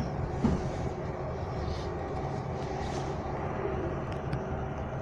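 Interior running noise of a Heathrow Connect Class 360 electric multiple unit at speed: a steady low rumble of wheels on rails, with a faint steady hum.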